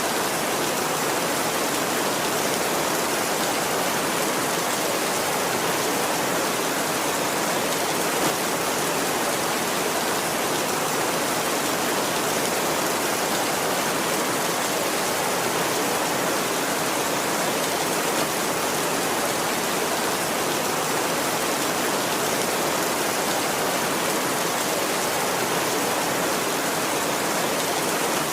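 Heavy rain falling steadily, an even hiss with no thunder and no breaks.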